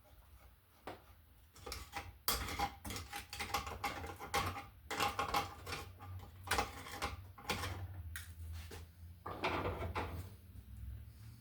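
Hands working with wire and tools at an electrical receptacle: irregular clicks, scrapes and rattles, starting about a second and a half in and dying down near the end.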